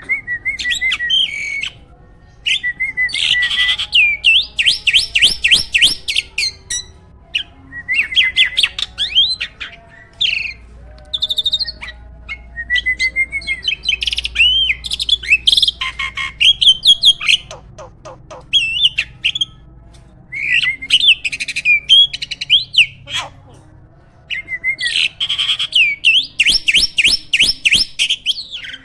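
A hybrid jalak starling singing in full voice: bursts of loud whistles and quick sweeping chirps mixed with sharp clicks, phrase after phrase with short pauses between.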